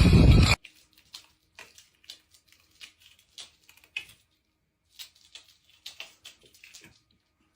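A loud rushing noise cuts off abruptly about half a second in, followed by faint, irregular light clicks and taps.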